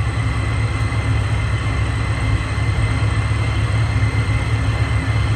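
Supercharged 2009 Ford Mustang 4.0-litre V6 idling steadily through Vibrant Streetpower mufflers and a quad-tip exhaust, a low, even exhaust rumble.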